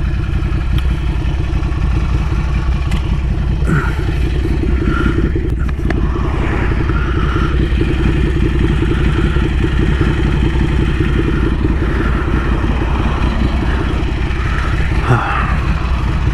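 Ducati Scrambler Café Racer's L-twin running steadily through a Vance & Hines slip-on exhaust, a low, even pulsing with no big revs.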